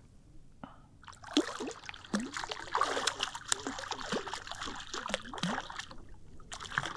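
Water splashing and dripping at the surface right beside a kayak, in many short, irregular splashes and plops that begin about a second in.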